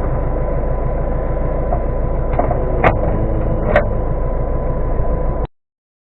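Steady low rumble of a vehicle running, with a few sharp knocks, cutting off suddenly about five and a half seconds in.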